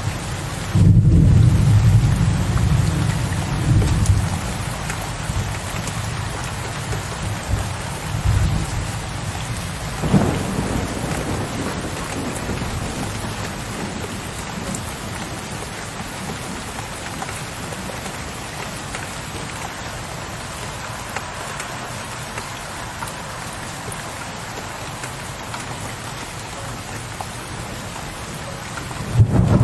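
Steady rain with thunder. A loud, low rumble of thunder starts about a second in and swells again a few times over the next several seconds, with a sharp crack around ten seconds. After that the rain runs on steadily until a new loud rumble starts just before the end.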